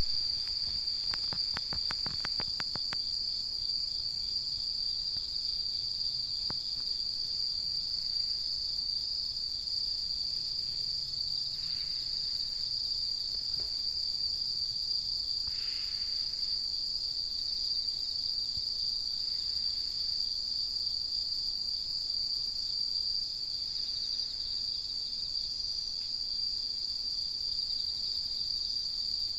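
A chorus of singing insects trilling steadily at a high pitch without a break. A few faint clicks sound in the first few seconds.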